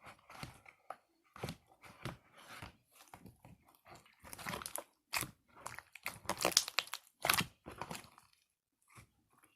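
Slime being squished and kneaded with warm water mixed in, making irregular wet clicks and squelches that are loudest and densest a few seconds before the end.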